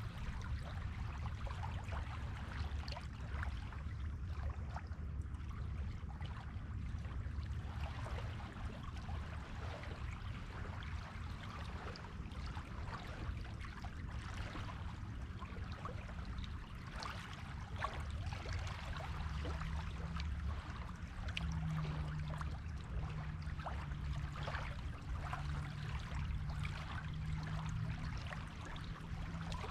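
Waves washing onto a beach, with a continuous fizzing crackle of water and foam over a low rumble. A faint low steady hum joins in the second half.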